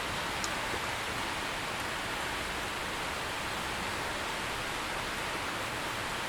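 Steady rain falling, an even hiss with no change in level, with one brief tick about half a second in.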